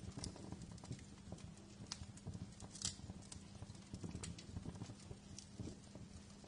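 Wood fire crackling in a fireplace: irregular sharp pops and snaps over a low, steady rumble of the flames, with one louder pop about three seconds in.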